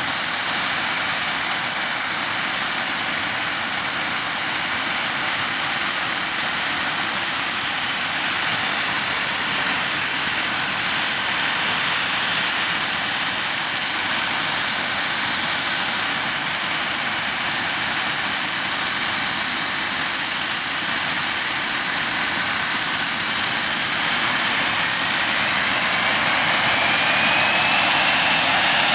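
Nimrod MR2's Rolls-Royce Spey turbofan engines running steadily on the ground: dense jet noise with a steady high whine. A second whine rises in pitch over the last few seconds.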